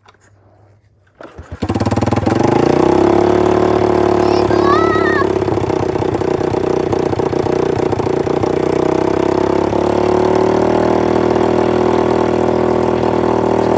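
Apollo 110cc dirt bike's single-cylinder four-stroke engine starting from cold: a couple of short stutters, then it catches about a second and a half in and idles steadily, extremely loud.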